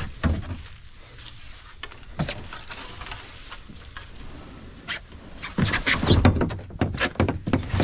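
Kayak and paddle knocking and scraping, scattered at first, then busy and louder from about five and a half seconds in.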